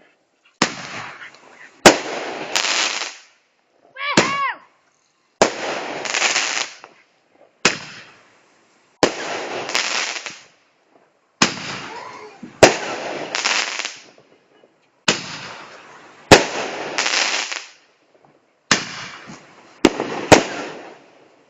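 Big Roman candle firing shot after shot: more than a dozen sharp bangs about every one and a half seconds, each followed by about a second of crackling hiss.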